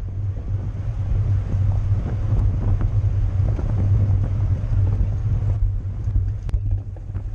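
Wind rushing over the microphone of a camera riding on a racing bicycle at speed: a steady, heavy low rumble, with a few faint clicks near the end.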